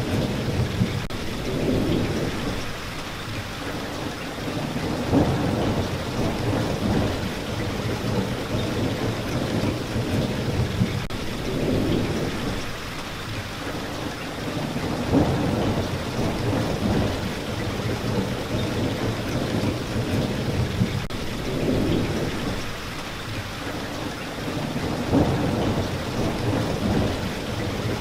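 Rain falling steadily, with low rumbles of thunder swelling and fading every few seconds.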